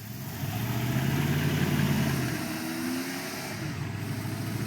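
Truck engines revving hard under load as two trucks pull against each other in a tug of war. The engine note builds to its loudest about a second in, eases after about two seconds, then revs up again.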